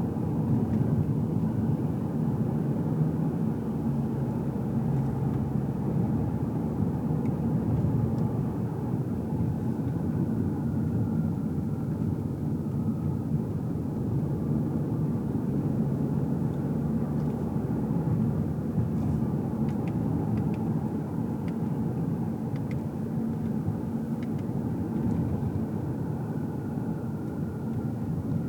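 Car cabin sound while driving: a steady engine hum and tyre road rumble, with a faint whine that rises and falls now and then.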